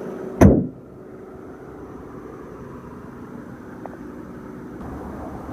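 A BMW 428i's 2-litre turbocharged inline-four being switched off: a short thump with a quick falling sweep, after which the engine noise drops away to a quieter, steady low background hum.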